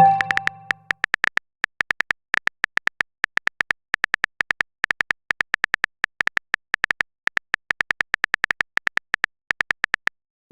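Smartphone keyboard typing clicks: short, sharp ticks in quick irregular runs, as a chat message is typed out. A brief chat notification chime fades out in the first second.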